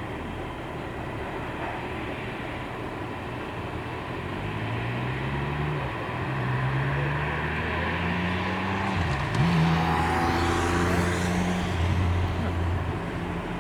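A motor vehicle's engine passing close by, its pitch rising and falling as it accelerates, loudest a little past the middle, over steady traffic noise.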